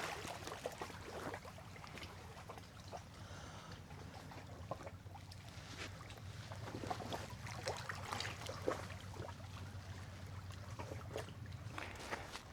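Footsteps crunching along a trail in irregular steps over a faint trickle of running water.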